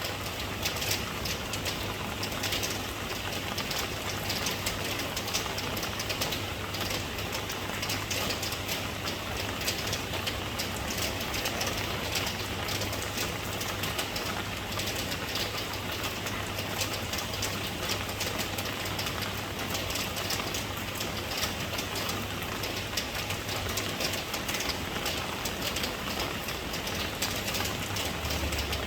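Steady rain falling with dense patter, over a constant low hum.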